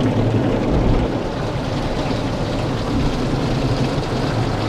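Automatic car wash running over the car, heard from inside the cabin: a steady rushing noise of spray and machinery.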